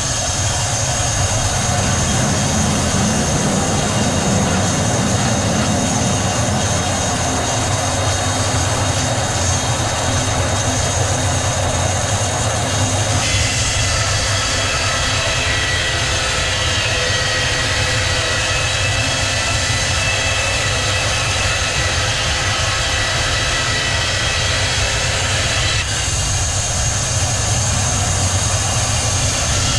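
Sawmill machinery running with a steady loud drone and whine. The sound changes abruptly about thirteen seconds in and again near the end.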